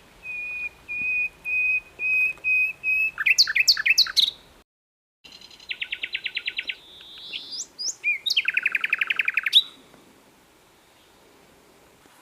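Common nightingale singing: a run of about seven slow, repeated piping whistles that grow louder, then a burst of quick sliding notes. After a brief dead-silent gap it gives two fast rattling trills, then falls quiet about two seconds before the end.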